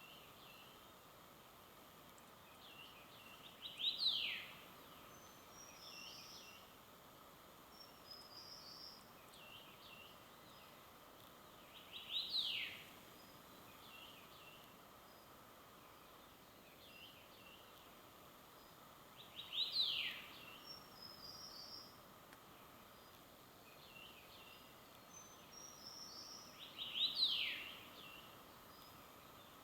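Wild birdsong: one bird repeats a short phrase about every seven to eight seconds, four times, each ending in a quick falling whistle, with fainter chirps from other birds in between over a faint steady hiss.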